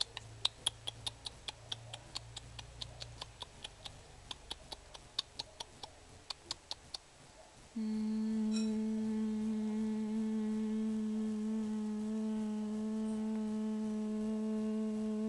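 Sharp, quick clicks, about four or five a second, for the first seven seconds. A steady hum on one low note then starts suddenly and is held without change.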